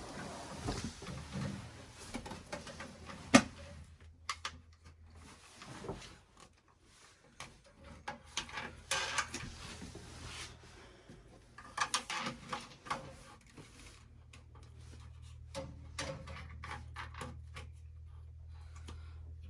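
Scattered clicks, knocks and rattles from hands working at a gas water heater's pilot assembly, with one sharp click about three seconds in. A faint low hum runs underneath and is stronger in the last few seconds.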